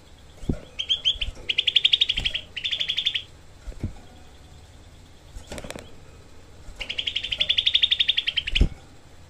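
Grey-bellied bulbul (cucak kelabu) singing two bursts of rapid, tightly packed, evenly repeated notes, the fast harsh 'tembakan' trill, one in the first few seconds and one near the end. A few short low thumps are heard between them.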